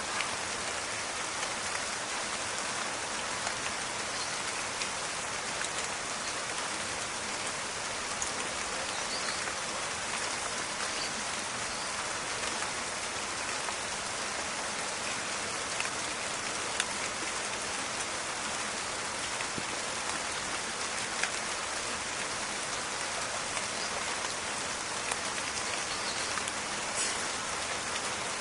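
Steady rain falling in a forest, an even hiss with scattered faint drop crackles and ticks.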